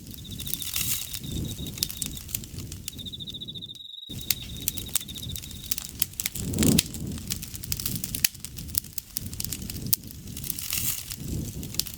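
Campfire crackling, with dense sharp pops over the low rumble of burning wood. An insect trills steadily at a high pitch and stops about halfway through. There is a brief total dropout about four seconds in.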